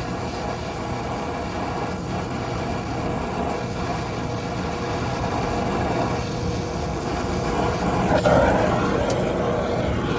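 Wind buffeting the microphone over a steady mechanical hum, with a louder rush about eight seconds in and a short click just after.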